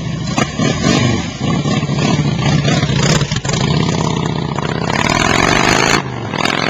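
2007 Harley-Davidson Street Glide's 96-cubic-inch V-twin running through fishtail Samson exhaust, with uneven throttle surges, then pulling away about five seconds in, its pitch rising as it accelerates.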